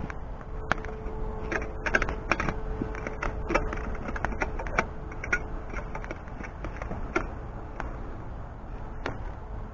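Wood fire crackling in an open hearth, with irregular sharp pops and snaps, several close together about two seconds in, over a steady low rush.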